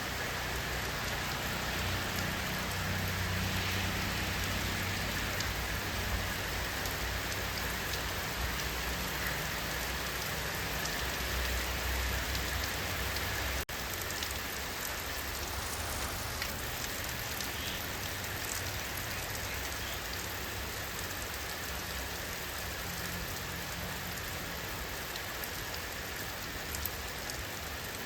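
Steady, even rainfall, with a low rumble underneath that is stronger in the first half. The sound drops out for an instant about halfway through.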